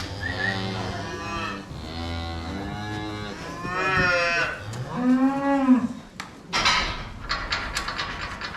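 Cattle mooing: several drawn-out moos one after another, the loudest about five seconds in rising and then falling in pitch, followed by a few sharp knocks near the end.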